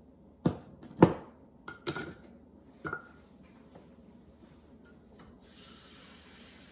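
Kitchenware clattering: five sharp knocks in the first three seconds, two with a brief metallic ring, as dishes or utensils are set down and handled. Near the end, a steady hiss starts.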